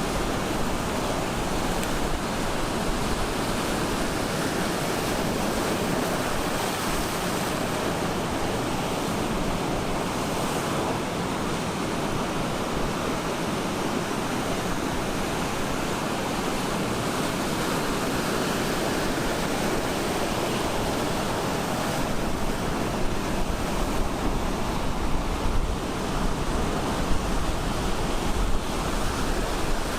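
Ocean surf breaking and washing on a beach as a steady rushing hiss. In the last several seconds, gusts of wind buffet the microphone with a low rumble.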